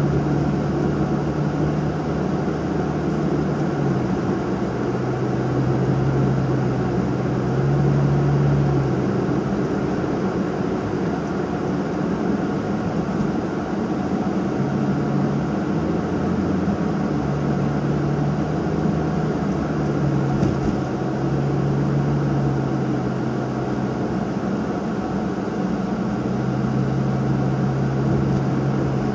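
Cabin sound of a Nissan Fuga 350GT under way: its 3.5-litre V6 and one-off quad-outlet exhaust drone steadily over road and tyre noise. The low engine note shifts up and down a few times as the throttle and road change.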